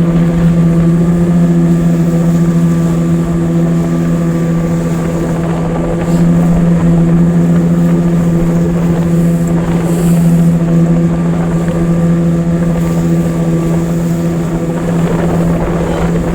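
A 9.9-horsepower outboard motor running steadily at constant throttle, driving a small boat, its pitch holding even throughout.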